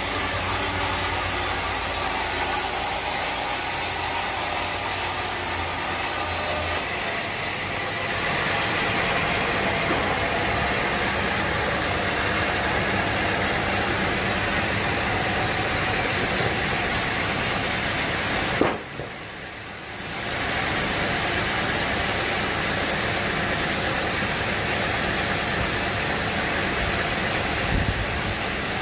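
Sawmill machinery running steadily. About two-thirds of the way through there is a sharp click, and the noise drops away for a second or two before it comes back.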